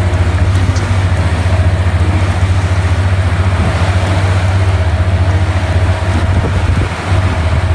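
A fishing boat's engine running steadily at sea, a deep, even hum, with wind and water rushing over it.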